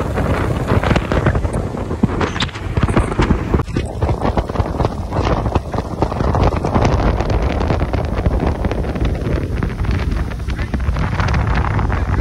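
Wind buffeting the microphone aboard a motorboat under way, over a low rumble from the boat.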